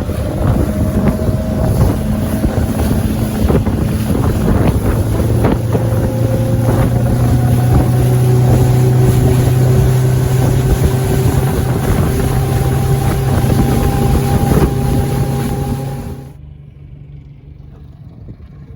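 Boat engine running under way, a steady hum whose pitch creeps slightly upward, with wind buffeting the microphone. It cuts off abruptly near the end, leaving a much quieter background.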